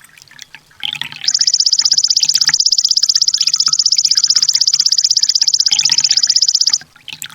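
Kolibri ninja sunbird song: scattered high chirps, then a long, very fast, high-pitched trill of evenly repeated notes lasting about five seconds that stops abruptly, followed by more short chirps.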